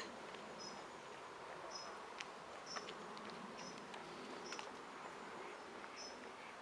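A small animal's short high chirp repeating about once a second, faint, over a quiet background hiss with a few light clicks.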